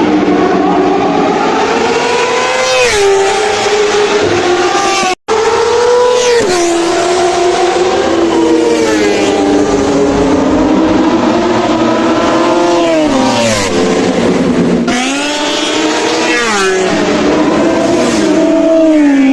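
High-revving racing engines at full throttle on a track, the pitch climbing and then dropping sharply at each gear change, several times over. The sound breaks off for an instant about five seconds in.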